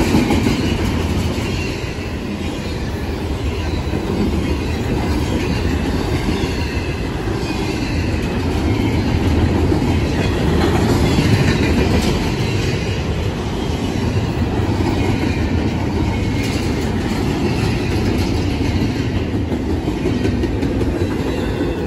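Double-stack intermodal freight cars of a fast-moving CSX train passing close by. Their steel wheels make a steady, loud running noise on the rails.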